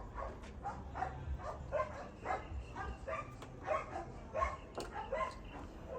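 A dog barking over and over, short yapping barks about twice a second.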